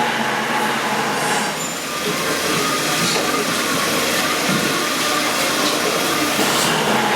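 A power tool running steadily, with a brief dip in level about two seconds in.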